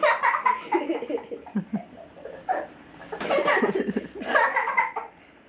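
Young children laughing and giggling in several short bursts.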